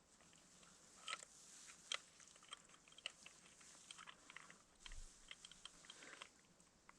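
Faint, irregular clicks and small crunches of hands handling gear, with a couple of sharper clicks a second or two in.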